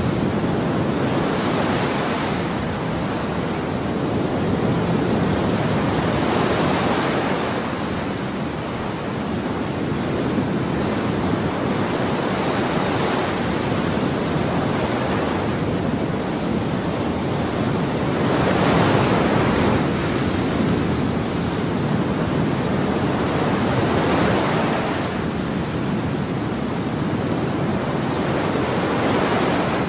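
Ocean waves breaking and washing on a shore, a continuous surf hiss that swells every five or six seconds as each wave comes in.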